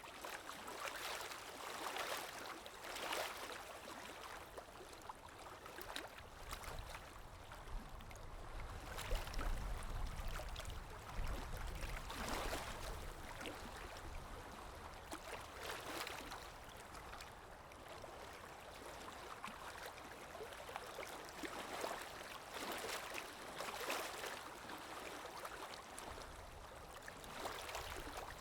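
Calm small waves lapping at the water's edge in soft surges every second or two, with a low rumble from about eight to twelve seconds in.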